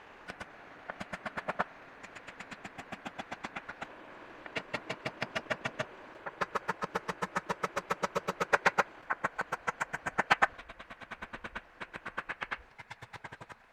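Quick, evenly spaced strokes of a hand tool working bamboo, about six a second, in runs of a second or two with short pauses between them.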